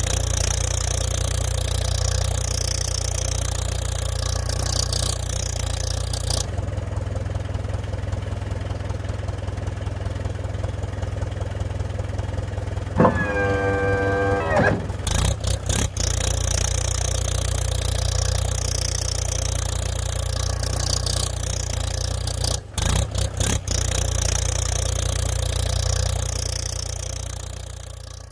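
Engine running steadily throughout, with a brief steady horn-like tone about halfway through.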